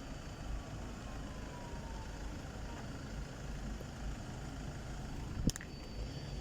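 Nottingham tram at a stop: a steady low rumble with a faint whine falling slowly in pitch in the first couple of seconds. One short sharp knock comes about five and a half seconds in.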